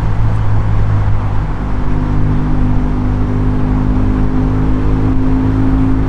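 BMW R1200GS Adventure's boxer-twin engine running at a steady cruise over a constant rush of riding noise, dipping briefly about a second and a half in.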